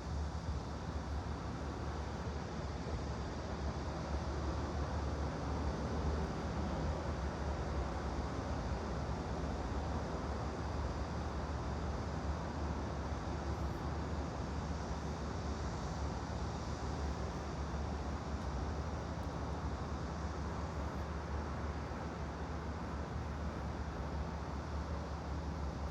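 Steady white-noise ambience: an even hiss over a constant low rumble, with no distinct events.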